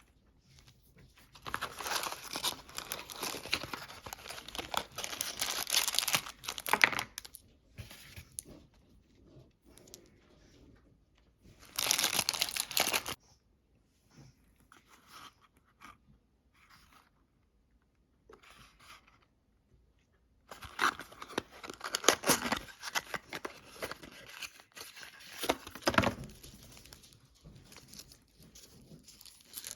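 Snack packaging being torn open and crinkled by hand, in three spells of rustling and tearing with quiet pauses between: a long one near the start, a short one in the middle and another long one later on.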